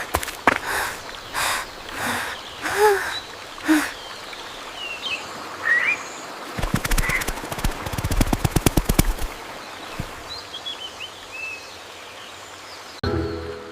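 Forest soundscape with short bird chirps, soft thumps in the first few seconds, and a rapid rattling run of knocks, about ten a second, lasting a couple of seconds about midway through.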